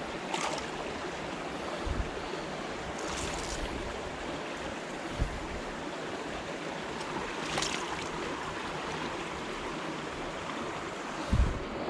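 Small river flowing steadily, with a few brief swishes and low knocks over it, the loudest knock near the end.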